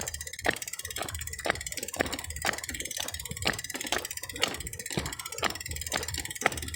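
Frogs calling in sharp, clicking notes, many overlapping, the loudest recurring about once a second, over a steady high hiss.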